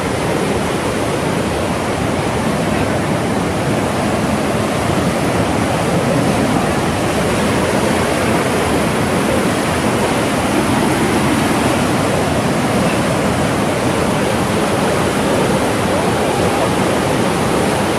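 Fast-moving mountain river rushing over big rocks, a loud, steady roar of whitewater.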